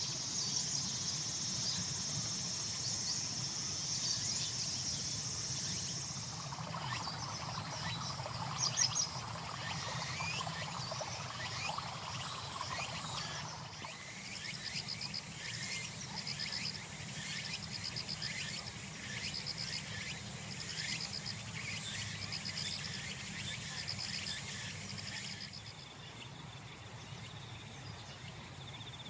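Chorus of singing insects: high, steady trills, joined in the middle by a rhythmic pulsed chirp repeating about once a second. The mix changes abruptly a few times, as between separate recordings.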